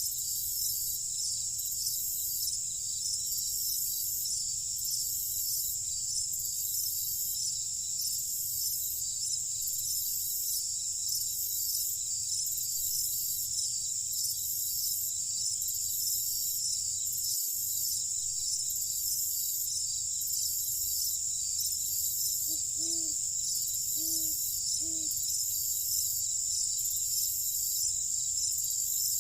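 Summer-night insect chorus: a steady, high-pitched cricket trill with an evenly pulsing layer of chirps above it. About 22 seconds in, three short low calls sound in quick succession.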